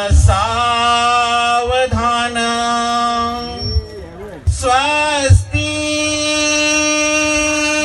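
A man singing long, drawn-out notes with slow pitch bends: the sung opening of a Marathi wedding mangalashtak. A few low thumps fall near the start and about five seconds in.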